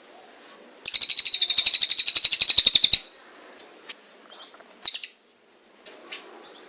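Songbird singing a loud, rapid rolling trill of high, evenly repeated notes, about a dozen a second, for about two seconds, then a few scattered short chirps and sharp calls. This is the 'roll tembak' trill used in Indonesian bird-training recordings.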